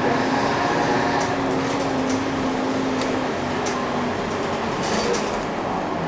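Interior running noise of a UD (Nissan Diesel) Space Runner RA city bus: its diesel engine hums at a steady pitch over road noise, with a few light rattles. The hum drops a little and fades about four seconds in as the bus eases off.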